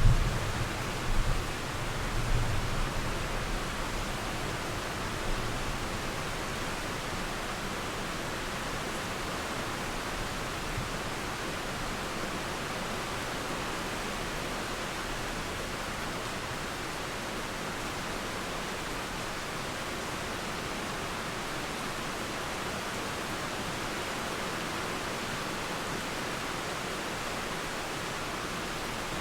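Steady rain hissing, with a low rumble of distant thunder swelling and fading over the first few seconds.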